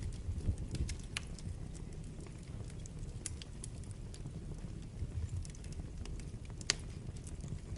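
Wood fire burning in a fireplace: a low steady rumble of flames with scattered sharp crackles and pops, the loudest snap about two-thirds of the way through.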